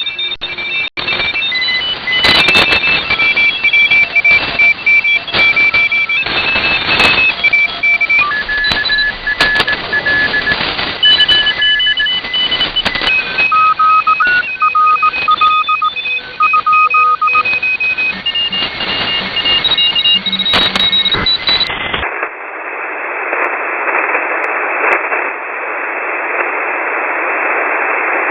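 Shortwave radio received through a WebSDR: several Morse code signals beep at different pitches over band static. About 22 s in, the signals stop abruptly and only a narrower band of static hiss remains.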